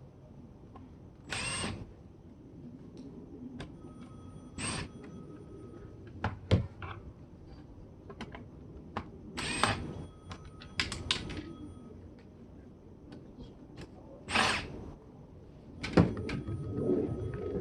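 Short bursts of a cordless drill-driver backing out screws, four times, with clicks and knocks of plastic parts and tools being handled.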